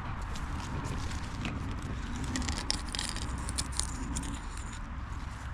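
Scattered small clicks, crackles and rattles of handling as the broken pieces of a crossbow bolt are worked out of a target head, over a steady low rumble.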